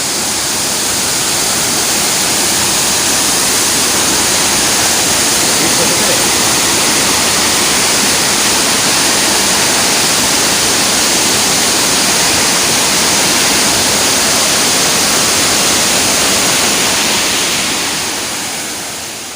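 Waterfall rushing, a steady dense hiss of falling water that fades out near the end.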